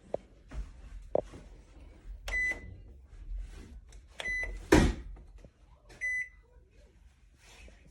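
Comfee EM720CPL-PMB countertop microwave beeping three times, about two seconds apart, each a short high beep, among scattered clicks and handling noise. A loud thump comes just after the second beep.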